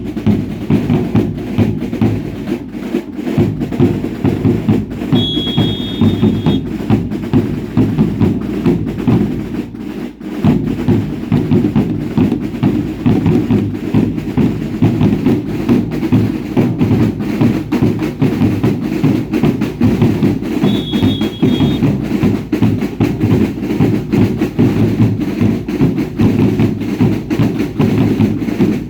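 A dance troupe's drums beating in a fast, steady, dense rhythm. A short, high whistle-like tone sounds over the drumming twice, about five seconds in and again about twenty seconds in.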